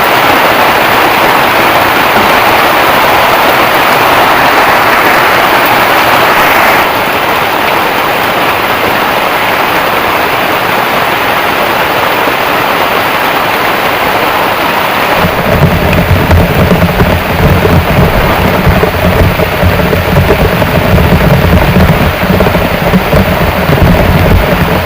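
Heavy rain falling in a dense, steady hiss. About seven seconds in the sound abruptly changes character. From about halfway through, a deep, continuous low rumble joins the rain and carries on.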